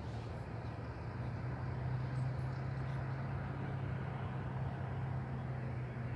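Steady low engine hum of distant vehicle traffic, swelling slightly about a second in.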